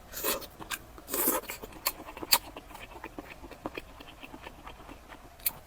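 Close-miked eating sounds: chewing with many sharp wet mouth clicks, and two short noisy bursts in the first second and a half.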